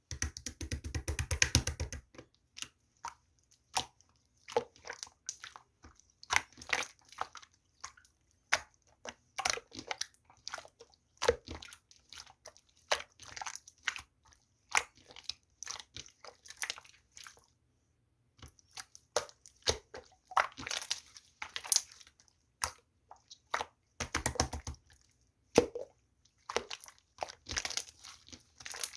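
Clear, chewy slime being squeezed and pressed by hand, giving irregular sticky pops, clicks and short crackling bursts, with a brief pause about two-thirds of the way through.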